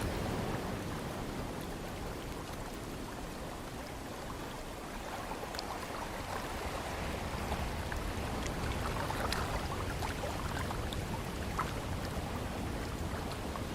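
Ocean surf and wind: a steady wash of waves that eases slightly a few seconds in and builds again, with scattered crackles of foam and spray in the later part.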